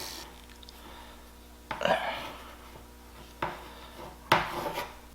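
Rubber hoses being pulled off a motorcycle carburetor's fittings, heard as a few short rubs and knocks of parts being handled, the sharpest about four seconds in, over a faint steady hum.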